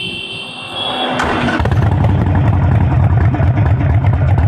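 A 900 cc V-twin Harley-Davidson motorcycle engine starts about a second and a half in and settles into a loud, lumpy idle with a deep pulsing beat. A steady high tone sounds before it starts.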